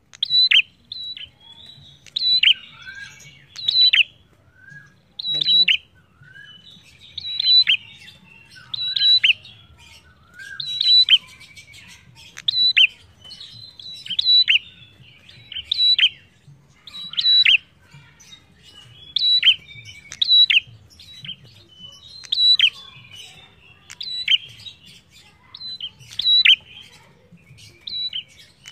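Caged prenjak calling continuously: loud, sharp high chirps with quick falling notes, in bursts about every one and a half to two seconds.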